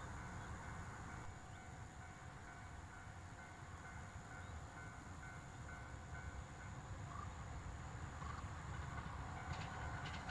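Distant train running, a faint low rumble that grows slightly louder near the end, with a few light clicks.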